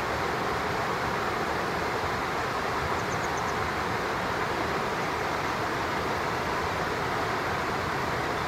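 Steady rushing of a stream running over rocks, a continuous even noise. A faint quick run of high ticks comes briefly about three seconds in.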